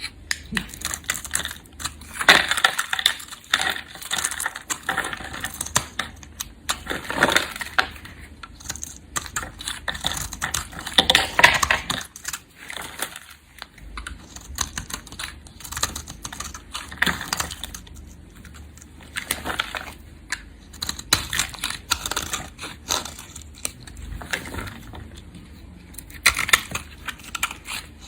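A knife cutting through bars of soap, with bursts of crisp crunching and scraping strokes and many small clicks as the blade bites and the pieces break away.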